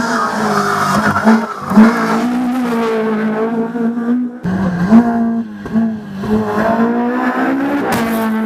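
Race car engines at full throttle on a hill climb, the pitch rising through each gear and dropping at the upshifts. About halfway through, the sound switches abruptly to another car.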